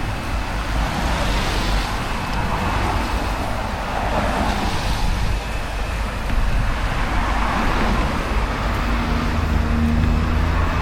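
Road traffic going by close at hand: a steady noise of cars, several swelling past one after another, with a low engine hum coming in near the end.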